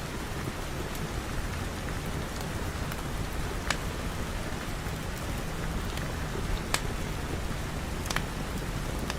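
Steady rain with a low rumble beneath it, and three sharp pops standing out over it at irregular moments.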